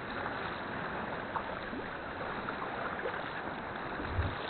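Sea water lapping and trickling around a kayak on the swell, a steady wash with small splashes, and a brief low thud near the end.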